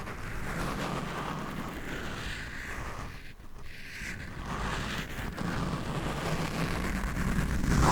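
Scratching and rubbing directly on a microphone, a continuous close scraping rustle that pauses briefly a little before halfway and grows louder near the end.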